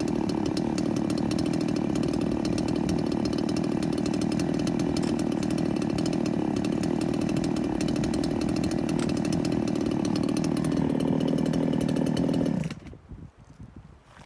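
Chainsaw running steadily at a constant pitch, then shut off abruptly near the end, leaving faint rustling.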